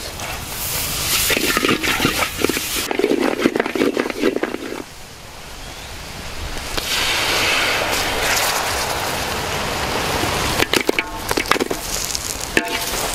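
Sauce bubbling and sizzling in a wok over a wood fire, with crackling through the first few seconds, a steady sizzle from about seven seconds in, and a few sharp clicks near the end.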